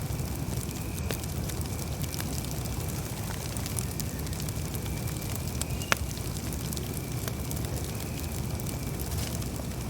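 Campfire burning: a steady low rush of the flames with scattered small crackles and one sharp pop about six seconds in.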